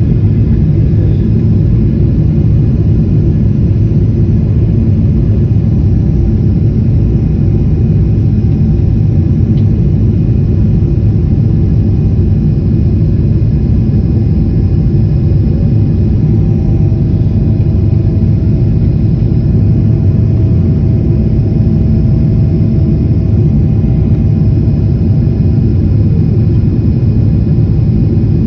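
Airplane in flight: a loud, steady low rumble with a few faint steady tones above it, unchanging throughout, like engine and air noise heard inside the cabin.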